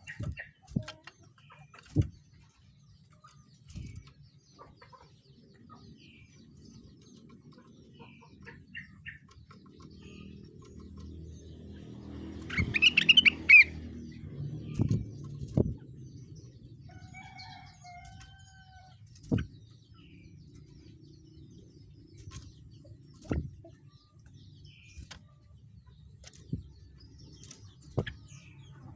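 A rengganis songbird gives one short, loud burst of chirping about halfway through, and a few fainter short whistled notes soon after. Sharp clicks and knocks come every few seconds throughout.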